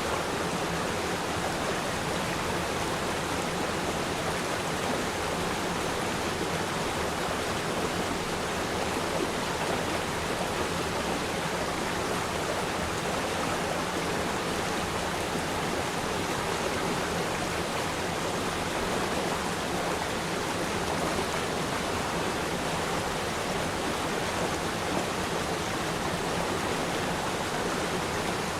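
River stream water flowing steadily: an even, continuous rushing hiss with no pauses or changes.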